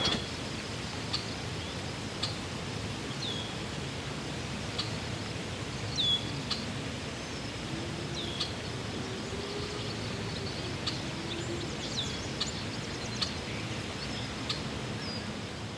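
Outdoor ambience: a steady wash of background noise, with a bird repeating a short, high, downward-hooking chirp about once every second or so.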